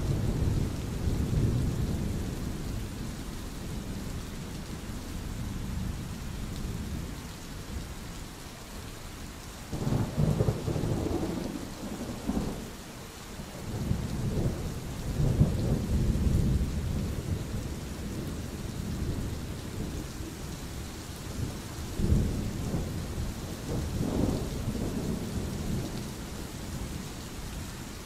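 Steady rain falling, with thunder rumbling in several low rolls: at the start, about ten seconds in, again around fifteen seconds, and in the last third.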